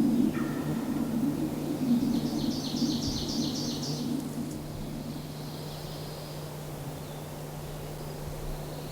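Spring woodland ambience: a small songbird's rapid, high trill of repeated notes from about two to four seconds in, then fainter high bird notes, over a steady low hum.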